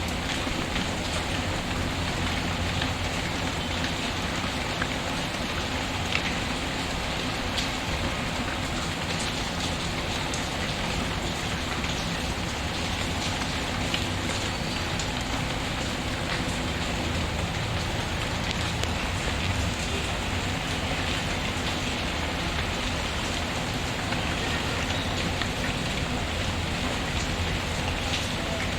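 Steady rain falling, mixed with a wood fire crackling now and then in a fireplace.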